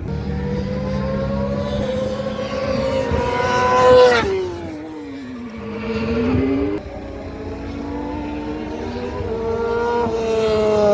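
Racing engines running hard at speed on a track, their pitch climbing as one approaches and dropping sharply as it passes about four seconds in, then another climb and drop near the end.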